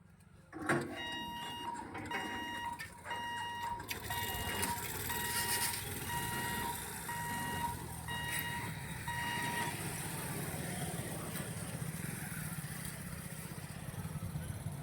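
Railway level-crossing warning beeper sounding a steady series of short beeps, a bit faster than one a second, which stops about ten seconds in. A steady low rumble runs underneath.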